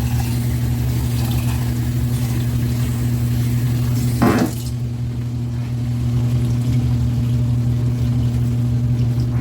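Meat, onions and peppers steaming and sizzling in a frying pan with a little added water, over a steady low hum. The hiss drops away about halfway through, just after a brief rising squeak.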